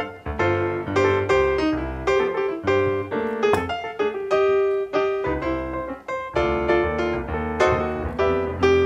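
Background piano music: a melody of separate notes, several a second, over low chords, with no pause.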